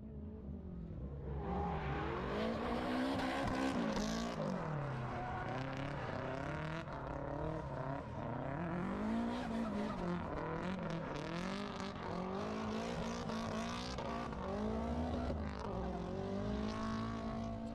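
A drift car's engine running at high revs, its pitch rising and falling over and over as the throttle is worked, with tyre noise beneath.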